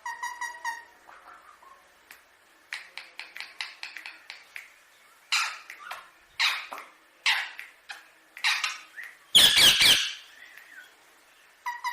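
Indian ringneck parakeet calling: a short pitched call, then a quick run of sharp clicking chirps, then a string of harsh squawks. The loudest, a harsh burst, comes about nine and a half seconds in.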